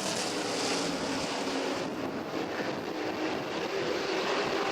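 Engines of asphalt modified race cars running on the track as the field laps, a steady drone with several engine pitches mixed together.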